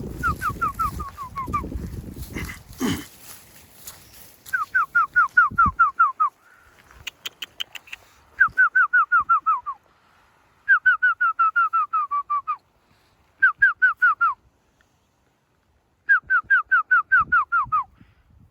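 Young red fox calling in quick bouts of short, high yips, each note falling in pitch, about eight a second, with pauses of a second or two between bouts. Some low rustling is heard at the start.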